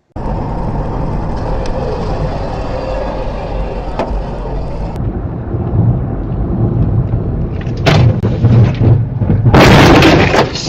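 Steady vehicle engine and road noise with a low rumble, swelling about eight seconds in, then a very loud, noisy stretch in the last second.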